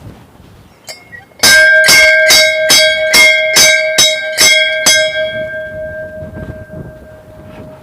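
A metal temple bell struck about nine times in quick succession, a little over two strikes a second, then left ringing with a steady tone that fades away.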